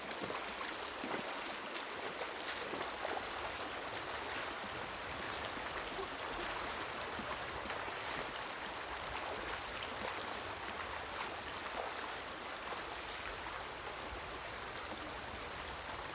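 A river flowing with a steady rushing of water.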